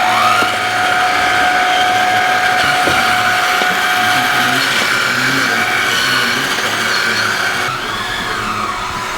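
Whine of a radio-controlled model construction machine's electric motor and gearbox: a steady tone for the first half, then a pitch that rises and falls as the motor speeds up and slows.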